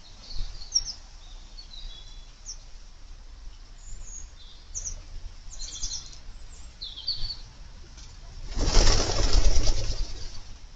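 Garden birds giving short, high chirps, then about eight and a half seconds in a loud fluttering burst of wing flapping lasting about a second and a half.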